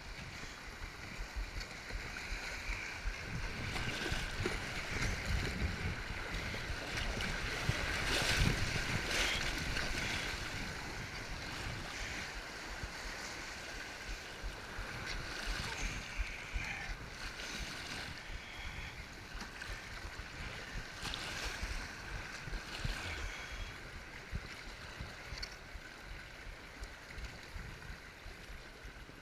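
Kayak paddling on a flowing river: a steady rush of moving water with occasional paddle splashes, swelling louder for several seconds before easing off, and some low rumble of wind on the microphone.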